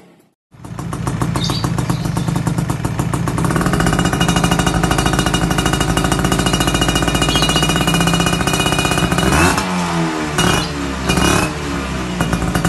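Two-stroke underbone motorcycle with a racing exhaust, revved and held at high revs. Near the end the revs drop and it is blipped up twice.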